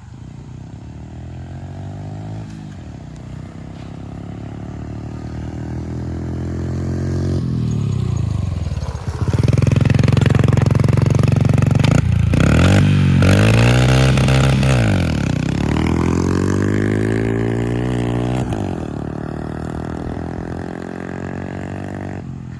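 Honda pit bike's small engine accelerating hard through the gears. The pitch climbs and drops back at each shift, grows loud as the bike passes close about nine to fifteen seconds in, then falls in pitch and fades away.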